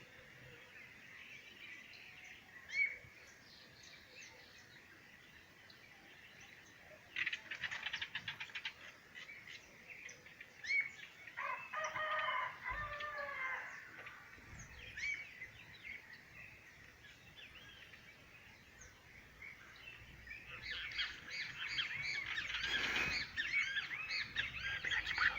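Birds chirping and calling on and off, with a longer call of several stacked notes near the middle and a busier spell of chirps near the end.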